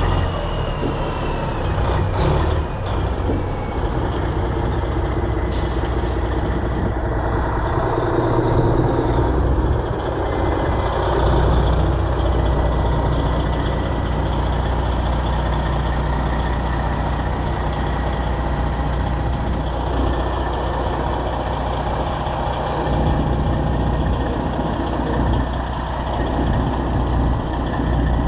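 Semi truck's diesel engine running with a steady, deep rumble.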